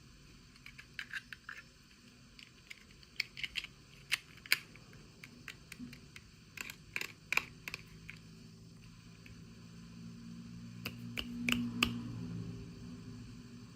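Irregular light clicks and taps, as of small plastic toy pieces and packaging being handled, coming in short clusters with quiet gaps between them. A low hum swells in the background near the end.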